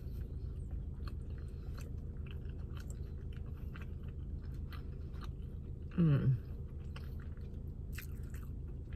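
A person chewing a mouthful of sandwich, with faint scattered mouth clicks over a steady low hum. About six seconds in comes a short falling "mmm" of enjoyment.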